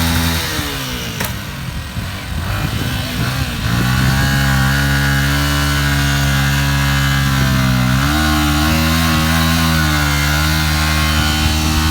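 A vehicle engine running steadily, with its pitch dipping near the start and stepping up about eight seconds in.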